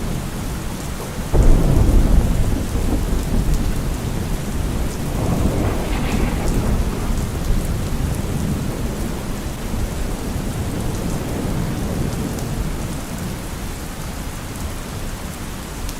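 Steady rain with thunder: a clap breaks in sharply about a second and a half in, then rumbles on and swells again around six seconds before slowly fading under the rain.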